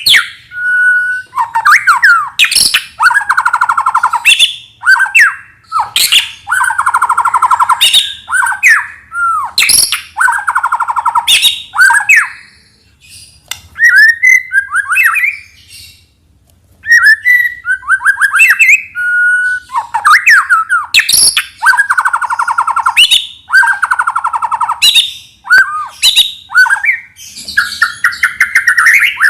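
White-rumped shama (murai batu) singing loudly: varied phrases of clear whistles and rising and falling glides, mixed with harsh rattling chatter. The song stops for a few seconds about halfway through, then carries on.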